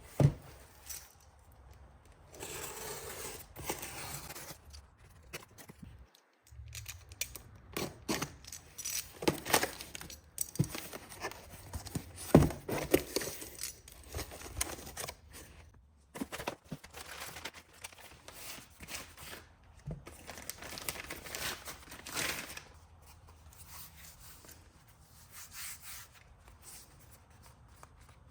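Irregular tearing and crinkling, broken by sharp knocks and scrapes of handling, thinning out near the end.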